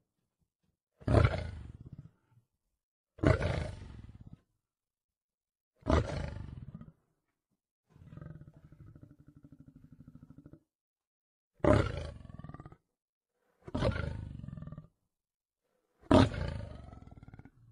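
Lion calling in a series of six loud grunting roars, each starting suddenly and dying away over about a second, roughly two seconds apart. In a gap near the middle, a quieter, low pulsing growl lasts about two and a half seconds.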